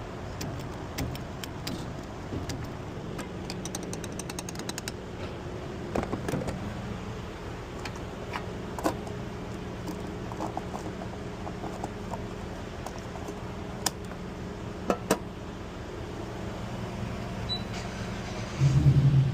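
Honda car's engine running with road and cabin noise from inside the car, with scattered light clicks and rattles. Near the end the engine suddenly gets much louder as the car accelerates.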